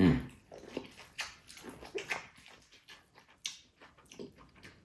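Close-miked eating sounds: biting and chewing vinegar-dipped corn on the cob, a string of short, uneven wet smacks and crunches.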